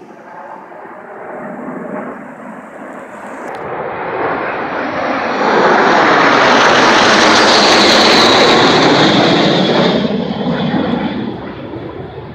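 An airplane flying past low and loud: its engine noise builds up, is loudest for about four seconds in the middle, then fades away.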